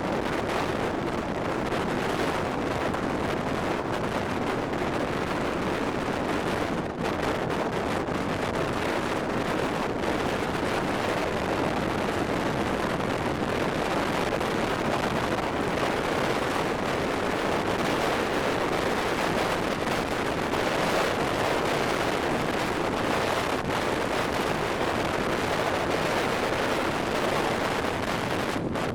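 Strong storm wind blowing over the microphone: a steady, loud rush of noise with no break.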